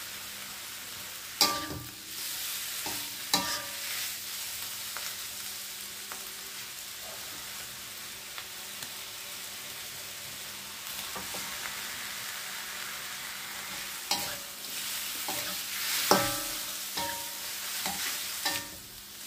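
Sliced mushrooms sizzling steadily in a wok over a gas burner. A metal spatula scrapes and knocks against the pan: a couple of sharp clanks early on, then several more in the last few seconds.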